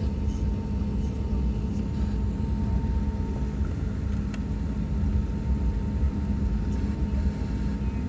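Steady low rumble of an airliner heard from inside the cabin, with a constant hum over it.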